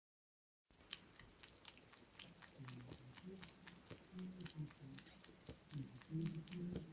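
Pet cat close to the microphone, with many small clicks and irregular low rumbling sounds from about two seconds in.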